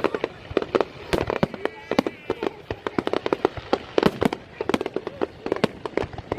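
A fireworks display going off, with many sharp bangs and crackles in rapid succession.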